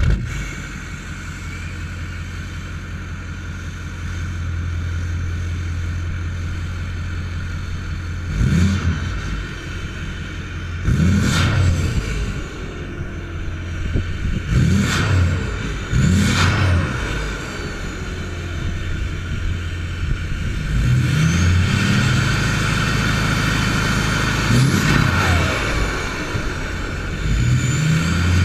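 Straight-piped Ford Power Stroke turbodiesel idling just after starting, then revved again and again, about seven times. With each rev the turbo whistles, rising in pitch and falling back as the engine drops to idle, over a steady high whine.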